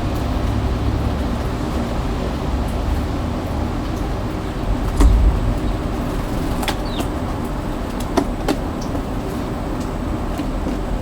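Steady rain falling, a dense even hiss, with a low rumble swelling briefly about five seconds in and a few sharp taps in the second half.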